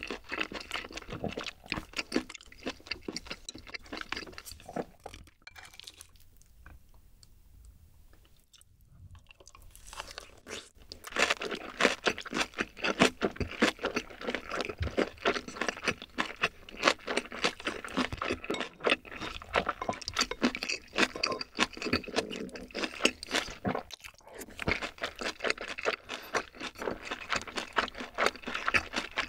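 Close-miked mukbang chewing and crunching of a mouthful of Korean home food: egg fried rice with kimchi and pork belly. The chewing drops away for several seconds about a fifth of the way in, then goes on steadily.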